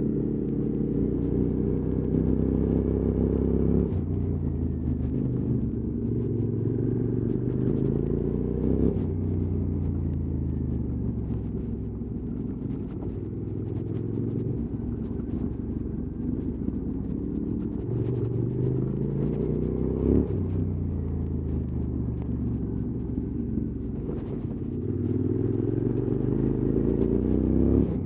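QJ Motors SVT650X twin-cylinder motorcycle engine running through an Arrow slip-on exhaust while being ridden. The engine note rises and falls, with sudden breaks in pitch about four, nine and twenty seconds in. It grows louder again near the end.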